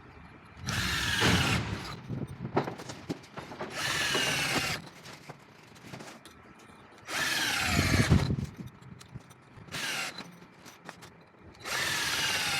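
Power drill driving anchor screws into a brick wall in about five short runs, its whine falling in pitch during each run.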